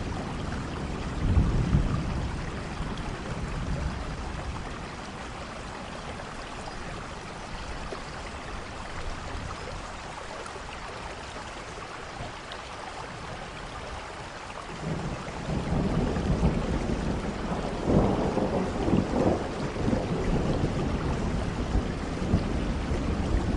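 Steady rain falling with rolling thunder: a rumble near the start, a quieter stretch of rain alone in the middle, then a longer, louder thunder roll building about two-thirds of the way through and rumbling on to the end.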